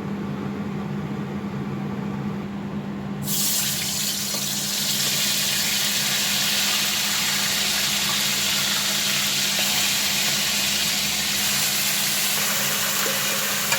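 Marinated chicken pieces going into hot vegetable oil in a kadai, with a sudden steady frying sizzle starting about three seconds in and holding. A steady low hum runs underneath.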